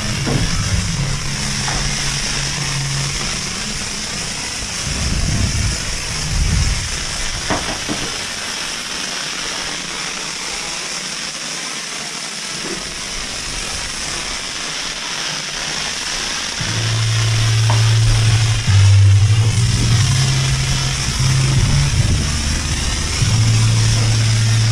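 A high-pressure spray wand at a self-serve car wash hisses steadily. Music with a heavy bass line plays over it, dropping back in the middle and coming in strongly about two-thirds of the way through.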